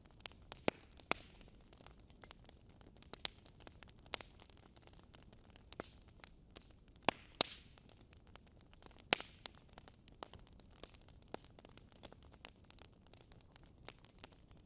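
Wood fire crackling in a fireplace: irregular sharp pops and snaps over a soft hiss, with the loudest pops about seven and nine seconds in.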